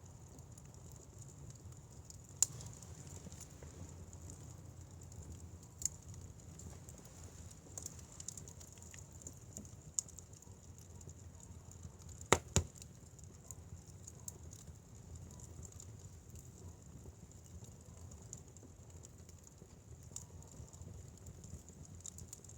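Wood fire burning with a low steady rumble and faint hiss, broken by a few sharp isolated pops from the burning firewood, the loudest a quick double pop about midway.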